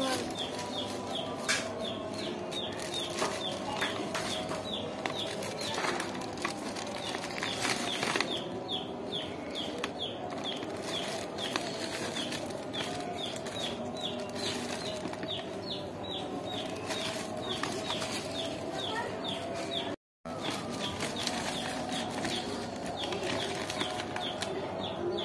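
A bird chirping over and over, short falling high notes about two or three a second, over a steady background hum.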